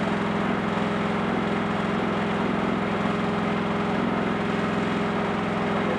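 Wood-Mizer portable sawmill's engine running at a steady, even speed.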